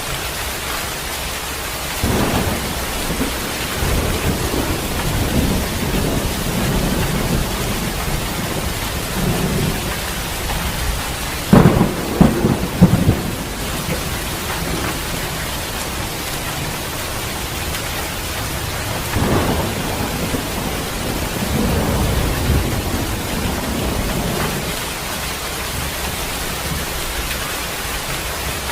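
Heavy rain falling steadily through a thunderstorm, with thunder rolling in about two seconds in, loud peals around the middle, and another long rumble in the last third.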